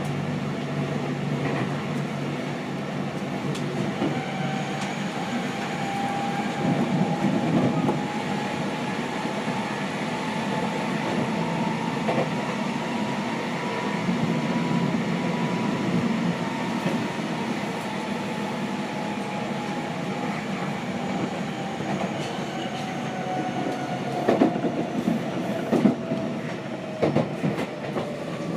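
Onboard running sound of a Seibu 6000 series electric train with a Hitachi GTO VVVF inverter. Over the rumble of the moving train, a whine rises in pitch to a peak around the middle, then falls again. The wheels knock over rail joints several times near the end.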